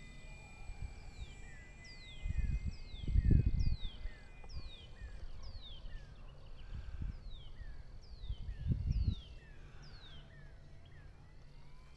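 A bird repeating a short, falling whistled call about twice a second. Wind gusts buffet the microphone and make low rumbles, the loudest about three seconds in and again near nine seconds.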